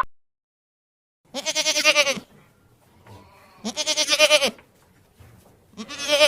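A hoofed farm animal bleating three times. Each call is a loud, quavering bleat about a second long, with short pauses between them.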